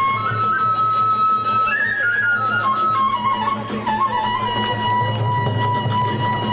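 Kagura festival music: a bamboo fue flute plays a melody that steps up and down, then holds one long note, over a fast, even clashing of small hand cymbals.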